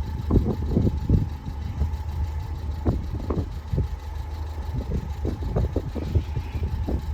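Road vehicle traffic running, with many irregular low knocks and a faint steady tone underneath.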